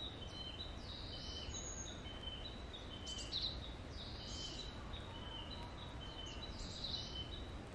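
Bird song in woodland: a steady run of short, high whistled notes alternating between two pitches, with a few brighter chirps, over a low outdoor background hum.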